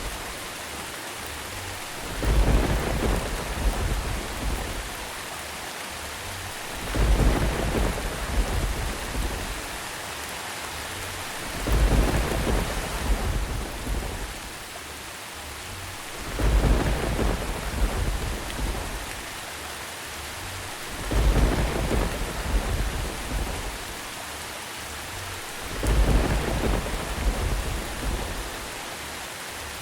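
Steady rain with deep rolls of thunder. The thunder swells up about every five seconds, six times in all.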